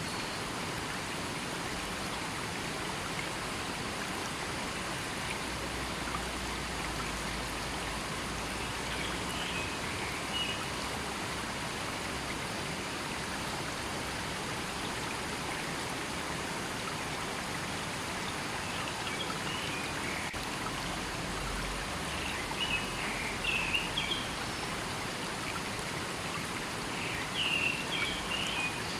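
River water flowing in a steady, continuous rush. A few brief high chirps come now and then, the clearest and loudest near the end.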